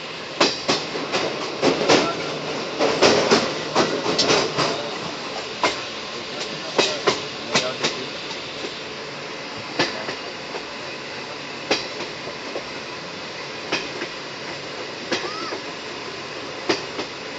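Passenger express train running: a steady rumble with irregular sharp clacks and knocks of wheels over rail joints. The knocks come thickest in the first few seconds, then every second or two.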